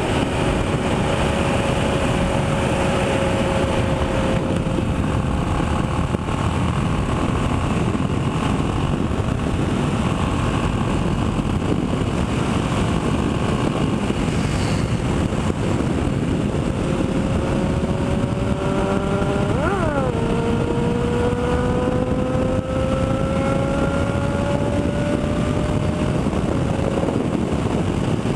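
Motorcycle engine running at speed under a steady rush of wind and road noise. Its pitch climbs slowly as it accelerates, with a quick rise and drop about two-thirds of the way through, like a gear change, before it climbs again.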